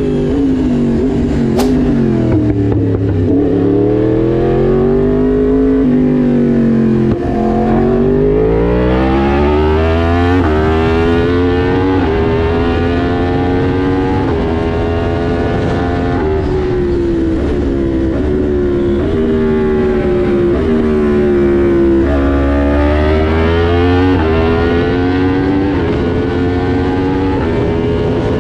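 Yamaha MT-10 SP's crossplane inline-four running through an Austin Racing exhaust. The engine pitch rises and falls repeatedly as it is revved and ridden, with step-like climbs and sudden drops as it shifts up through the gears.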